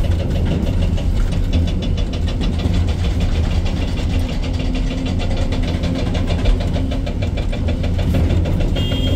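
Excavator diesel engine running steadily, heard from the operator's cab, with a fast, even knocking over it. A brief high beep near the end.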